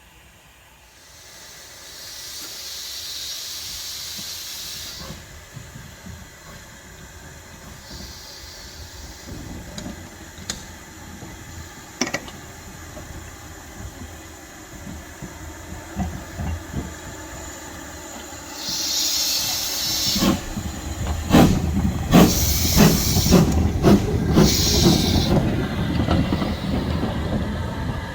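Steam locomotive letting off steam in several hissing bursts. From about two-thirds through, a growing rumble joins in, with a run of sharp clicks as the train moves on the rails.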